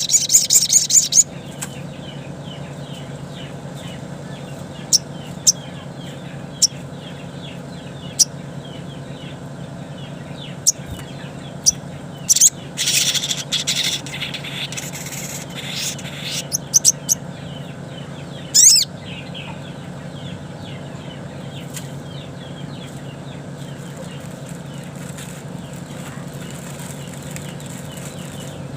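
Wild sogon (sogok ontong) calling: scattered short, sharp, very high-pitched chips, with a fast chattering run in the middle and a loud call a few seconds later, over a steady low hum and faint background chirping.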